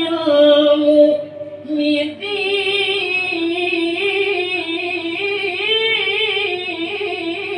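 Solo Quran recitation in the ornamented melodic (tilawah) style: one voice sustains a long, wavering melodic run on a stretched vowel, with a short break about a second and a half in before the melody resumes.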